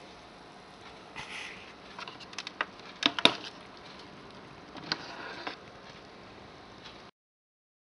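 A few light clicks and knocks of things being handled, with the loudest pair about three seconds in, over faint hiss; the sound cuts out about seven seconds in.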